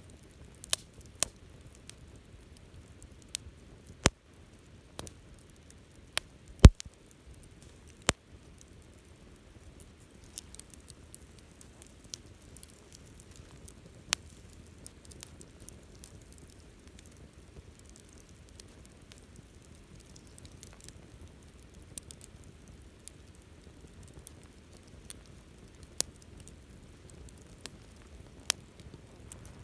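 Wood campfire crackling, with irregular sharp pops over a faint steady hiss of burning; the pops come thickest in the first few seconds, and the loudest comes about seven seconds in.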